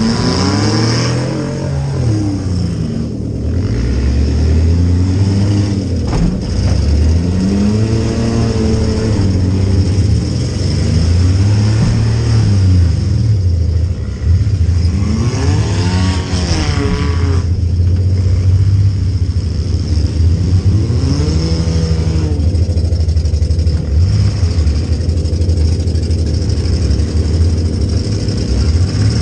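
Demolition derby compact car's engine heard from inside the stripped cabin, revving up and down over and over as the car accelerates and backs off, with a couple of sharp knocks along the way.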